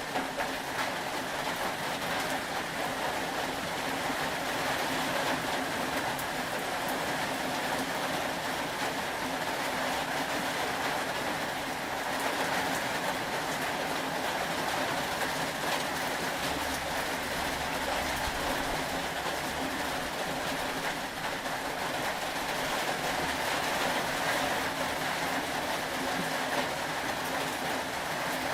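Steady rain ambience, an even unbroken hiss of falling rain with a faint low hum beneath it.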